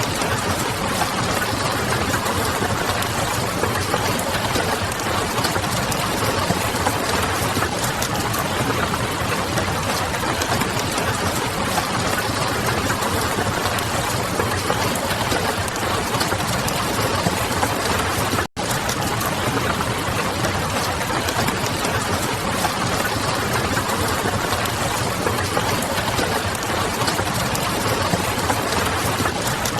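Steady rain pattering on a window and a crackling wood fire, blended into one dense, continuous hiss with a few faint crackles. The sound drops out for a split second about two-thirds of the way through, then resumes unchanged.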